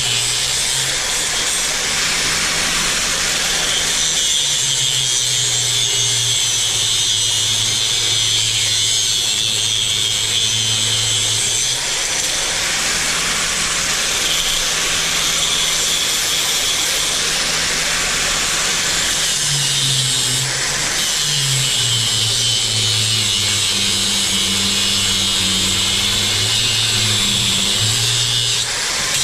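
Power drill running under load, boring a bolt hole through the wood-and-steel beam, with its low hum shifting in pitch now and then.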